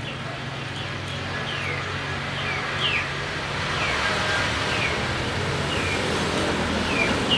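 A bird chirping repeatedly, each call a short note falling in pitch, about one or two a second, over a steady low hum like a running engine and a rising background rush of noise.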